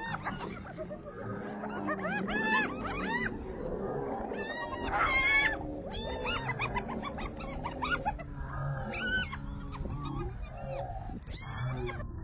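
A group of hyenas calling over one another in quick runs of high, rising-and-falling whoops and cackles, with lower growls beneath, as they contest a kill with lions.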